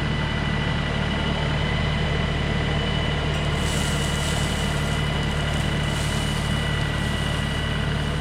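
LS MT3 compact tractor's diesel engine running steadily, with a constant high whine over the low drone. About three and a half seconds in, a rush of hiss joins it for several seconds.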